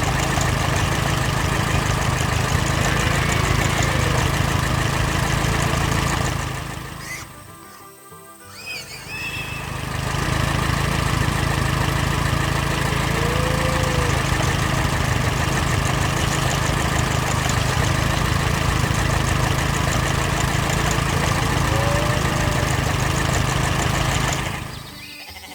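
Cartoon farm soundtrack: music with animal sound effects over a steady, dense din. The din fades out for a few seconds about seven seconds in, then returns, and fades again near the end.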